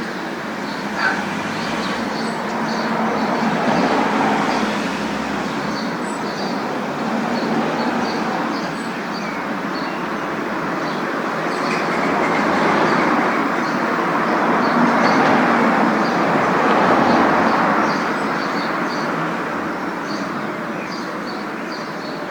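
Road noise of a moving car: a steady hiss that swells and eases every few seconds, with faint light ticking throughout and a brief sharper sound about a second in.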